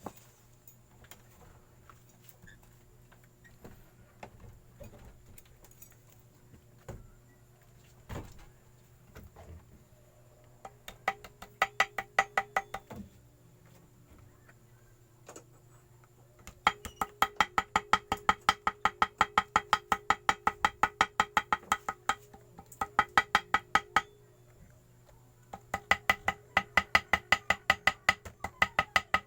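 Rapid light hammer taps, about five or six a second, each with a short metallic ring, coming in runs of a few seconds with pauses between. This is typical of tapping gasket paper against the edge of a motorcycle engine case to cut out a homemade gasket. Before the first run there are only faint scattered clicks of handling.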